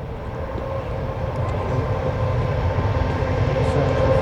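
Jet airliner's engines running, a low rumble with a steady hum over it, growing steadily louder.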